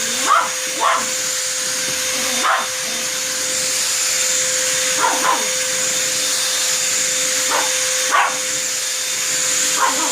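A vacuum cleaner runs with a steady hum and hiss while a dog barks at it in short, irregular barks, about eight in all.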